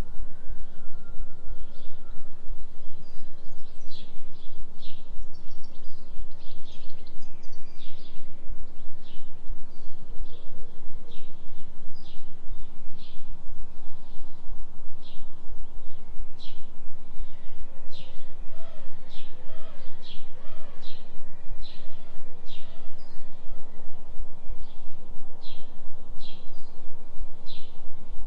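A low synthesised tone for a 3 Hz delta binaural-beat track, pulsing about three times a second. Over it, forest birds repeat short high chirps every half second or so, with a few fainter wavering calls about two-thirds of the way through.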